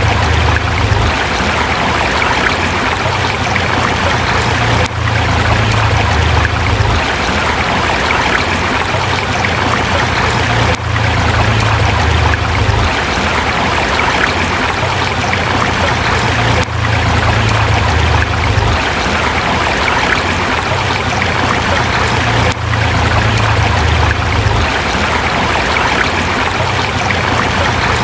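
A forest river rushing steadily over rocks, with a low rumble under the splashing. There is a brief dip in the sound about every six seconds.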